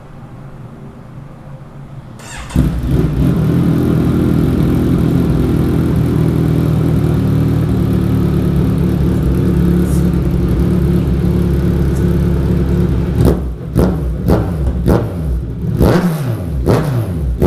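Kawasaki Z1000 inline-four motorcycle engine through an aftermarket Black Widow straight-pipe exhaust with one dB killer removed. It starts up loud about two and a half seconds in, idles steadily, then is blipped in a series of short, sharp revs near the end.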